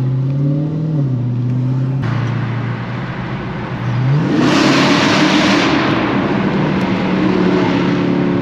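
Car engine accelerating hard: a steady drone, then about four seconds in the revs climb steeply with a loud rush of exhaust noise, and the engine holds at higher revs.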